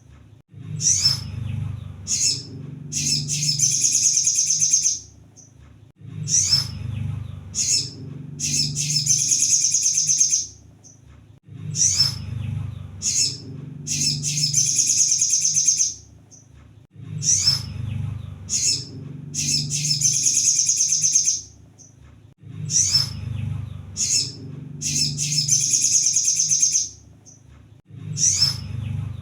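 Kolibri sogon (a sunbird) singing: a few sharp high chips, then a rapid, high trill of about two seconds, the phrase repeating about every five and a half seconds over a low hum in the recording.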